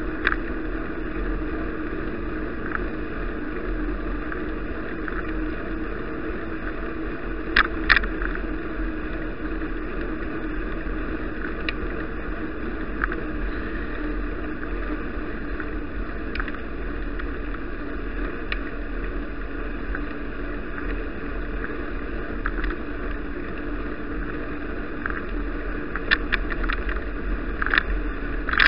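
Steady wind and rolling noise from a moving bicycle, as picked up by an action camera, with brief rattles about eight seconds in and several more near the end.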